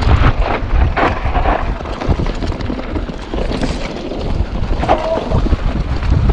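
Wind buffeting the microphone during a mountain-bike ride, with a low rumble and scattered knocks and rattles from the bike over rough ground.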